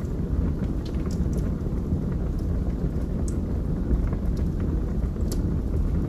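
Wood fire burning in a fireplace: a steady low rumble of flames with scattered sharp crackles and pops from the burning logs, a few seconds apart.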